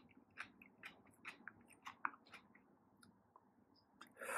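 Faint wet clicks of a person chewing kimchi, thinning out about halfway. Near the end, a sudden loud breathy burst of air.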